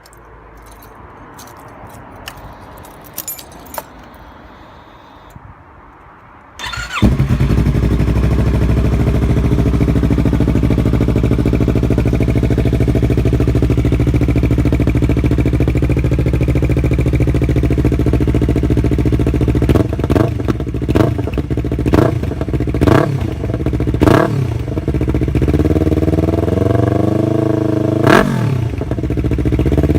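Yamaha R3's parallel-twin engine breathing through an aftermarket stainless-steel full exhaust system: a few small clicks, then it starts about a quarter of the way in and idles steadily. In the last third the throttle is blipped repeatedly, short revs rising and falling in pitch.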